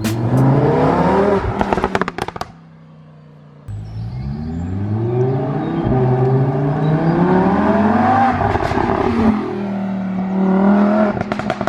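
Lamborghini Huracan LP610-4's V10 through an iPE exhaust, accelerating hard. The revs climb briefly with crackles and pops as the throttle lifts, then climb again in one long pull before settling, with more crackling near the end.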